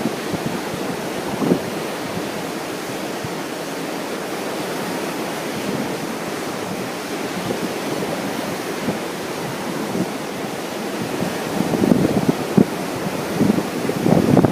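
Ocean surf washing steadily, with wind buffeting the microphone; the gusts grow stronger and choppier near the end.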